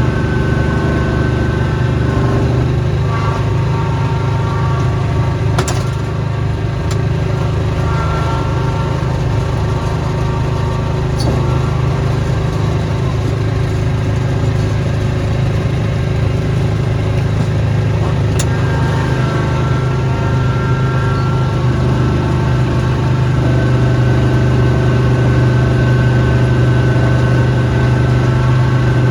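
Snowblower engine running steadily, with a few light ticks over it; the engine hum gets slightly louder about three-quarters of the way through.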